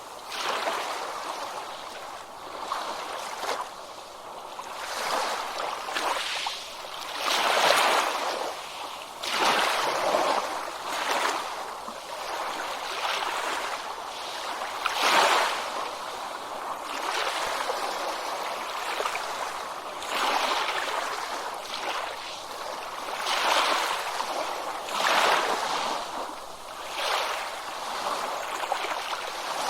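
Small ocean waves washing in: a rushing swell of surf that rises and falls every two to three seconds.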